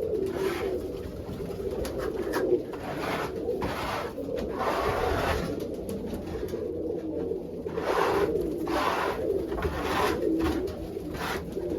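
Pigeons cooing continuously, with a scraper rasping over the coop floor in short, irregular strokes about once a second.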